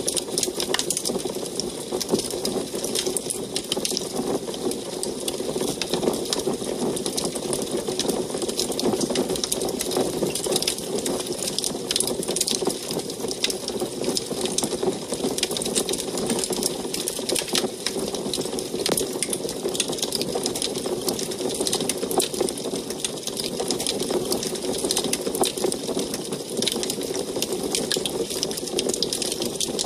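Wood fire burning in an antique wood stove: a steady rushing sound with many quick, irregular crackles and pops.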